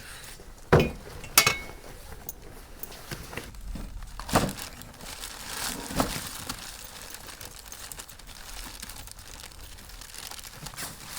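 Handling noise: things being moved and packed with a crinkling rustle, and four sharp knocks, two close together about a second in and two more around four and a half and six seconds.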